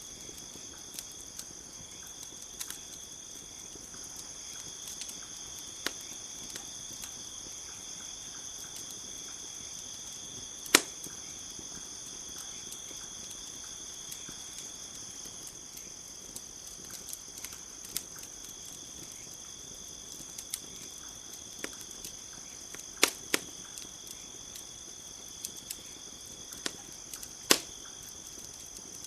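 Campfire crackling, with scattered sharp pops: the loudest come about 11 seconds in and twice more near the end. Under it runs a steady, high chirring chorus of crickets.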